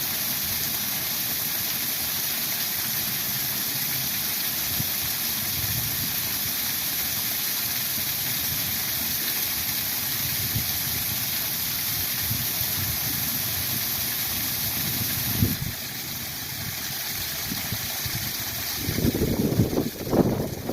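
Spring waterfall rushing steadily. About fifteen seconds in there is a short knock and the rush turns a little quieter, and near the end uneven low rumbling buffets come over it.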